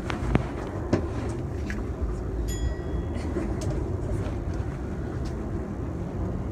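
Yamanote Line commuter train running, heard from behind the driver's cab: a steady low rumble with a couple of sharp clicks in the first second. A short high beep sounds about two and a half seconds in.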